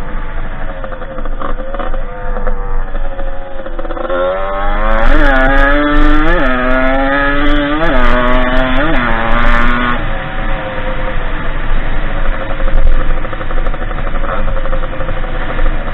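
Derbi 50cc two-stroke engine of a dirt bike under way: from about four seconds in it revs up to a high steady pitch with four short upward surges, then drops back to a lower, rougher running sound near the ten-second mark.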